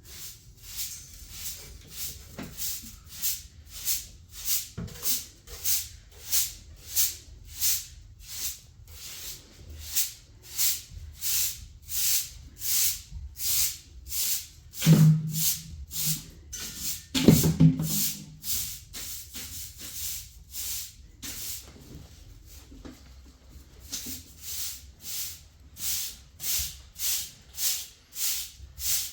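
Rhythmic scratchy strokes, about one and a half a second, like a hand tool or brush worked back and forth. The strokes thin out for a few seconds past the middle, and two louder, lower sounds come just before that.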